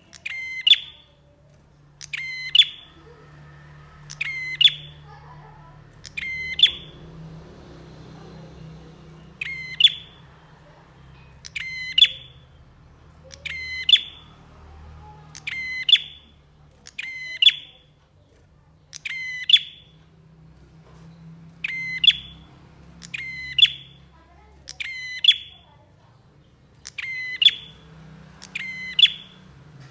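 Prenjak (prinia) giving a short, sharp, rapidly trilled call again and again, about once every two seconds, over a faint low hum.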